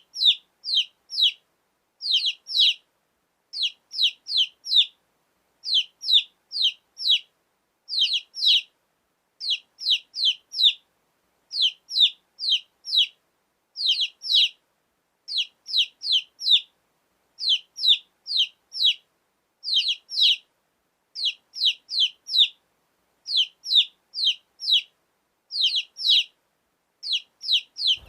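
Baby chick peeping: short, high chirps that fall in pitch, in quick runs of three or four, repeating about every two seconds.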